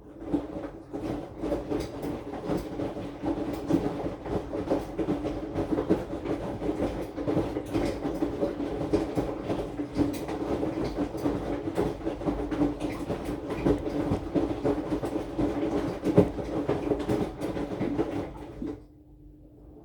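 AQUA AQW-DX12M drum washing machine turning its drum during the wash, heard through the top of the machine: a steady motor hum under irregular knocks and thumps of laundry falling in the drum. Near the end the drum stops and the sound drops away for the pause between turns.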